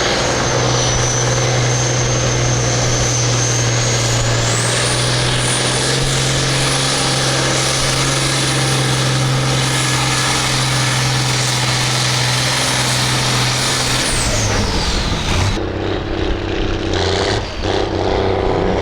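Farm stock diesel tractor pulling under full load with a steady engine note and a high whine that climbs about four seconds in and holds. About fourteen seconds in the whine falls away and the engine drops off.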